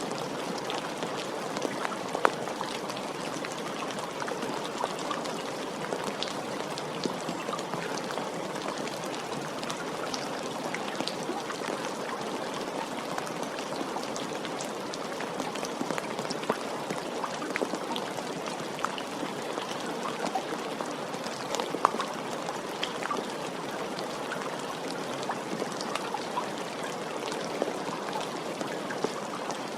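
Steady rain falling, an even hiss with many individual drops ticking and pattering sharply on a surface throughout.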